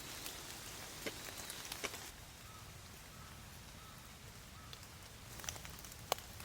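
Rain falling, an even patter with scattered louder drops ticking on surfaces close by, a few of them sharp and distinct.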